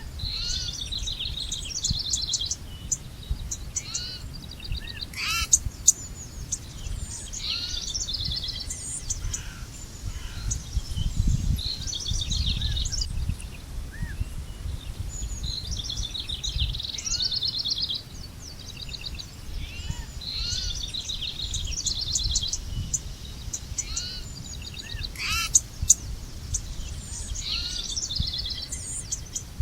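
Songbirds singing: rapid trilled phrases and chirps every few seconds, over a low steady rumble. Two short sharp clicks stand out, about twenty seconds apart.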